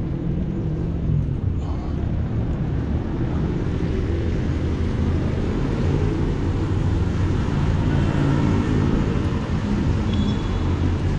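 Steady low rumble of wind buffeting an action camera's microphone, mixed with tyre noise from a bicycle rolling downhill on asphalt.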